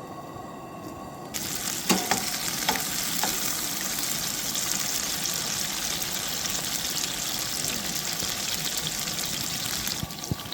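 Food sizzling in a hot pan, with a few knocks of a utensil about two seconds in. The sizzle starts abruptly just over a second in and cuts off just before the end.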